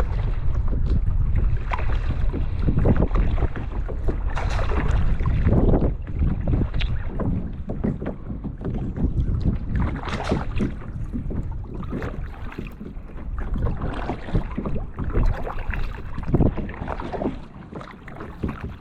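Wind rumbling on the microphone, with a kayak paddle dipping and splashing in the water at irregular intervals.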